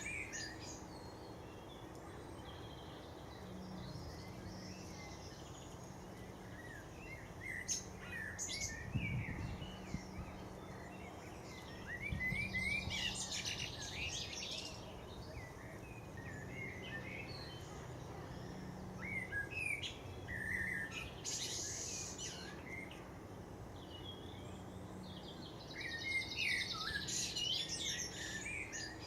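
Garden birds chirping and calling in bursts every few seconds, over a faint steady low hum.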